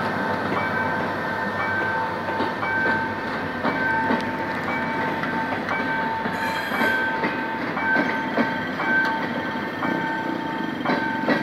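Diesel-hauled passenger coaches rolling past at low speed as the train pulls out, with wheels clacking irregularly over rail joints and a high-pitched squeal that keeps coming and going.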